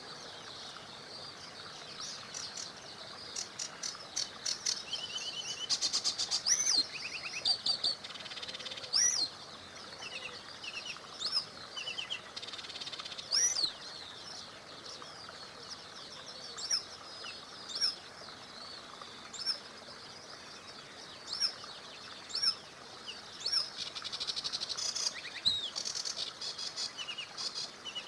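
Several songbirds chirping and singing over the steady rush of a small river: short rising chirps, quick trills and a couple of buzzy, rattling bursts.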